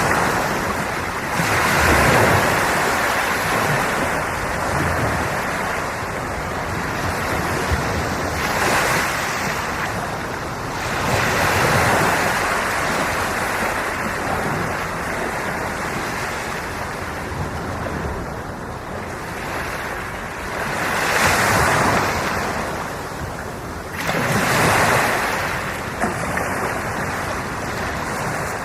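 Sea waves breaking and washing ashore, the surf hiss swelling louder about five times as each wave comes in.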